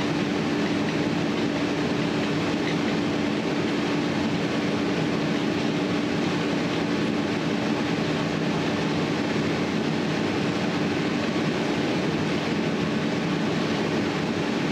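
A steady mechanical drone: a constant low hum over an even rushing noise, unchanging throughout.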